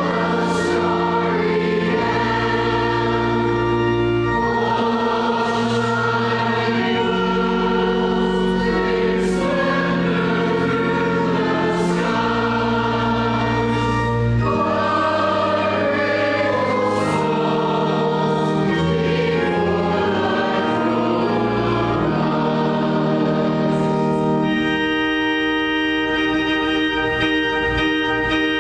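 A church choir or congregation singing a hymn to organ accompaniment, with sustained low organ notes changing chord every second or two under the voices.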